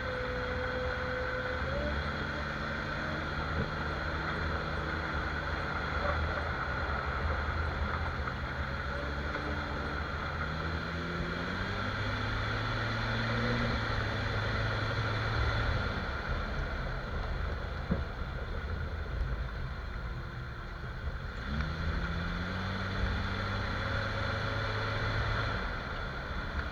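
Jeep Cherokee XJ engine running, with road noise inside the cabin while driving. The engine pitch rises a few times as it accelerates. No clunk or squeak comes from the front end, whose axle shaft U-joints have been sprayed with dry lube.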